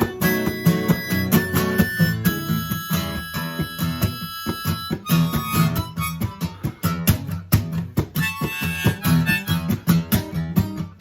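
Acoustic guitar strummed steadily, with a harmonica playing long held notes over it, with no singing.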